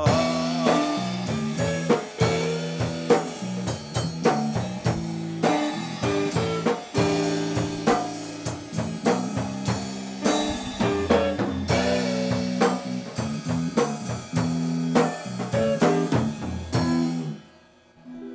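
Blues band playing an instrumental passage with drum kit and guitar, no vocals. Near the end the band stops together on a final hit, and the last notes die away.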